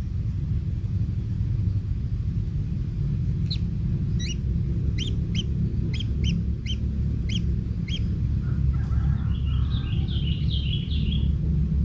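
Kingfisher calling: a run of short, sharp notes at about two a second, then a few seconds of raspy chattering, over a steady low rumble.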